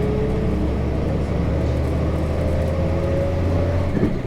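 Nissan Diesel KC-RM211GSN bus's FE6 straight-six diesel engine pulling under acceleration, heard from inside the bus, with a whine rising slowly in pitch. About four seconds in, the engine note cuts off with a click, as when the driver shifts gear on the five-speed manual.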